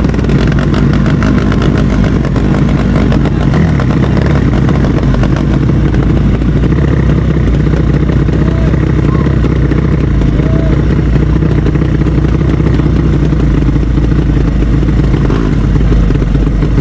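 Drag-race motorcycle engines running loudly and steadily, with a rapid even firing beat and no big rev sweeps; voices mixed in.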